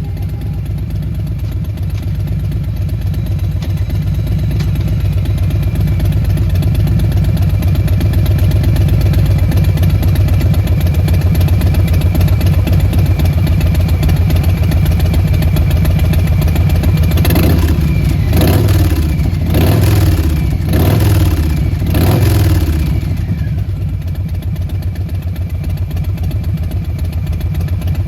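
2020 Harley-Davidson Softail Standard's Milwaukee-Eight V-twin running through Vance & Hines Short Shots slip-on mufflers: a steady, loud idle. About two-thirds of the way through come about five quick throttle blips in a row, and then it drops back to idle.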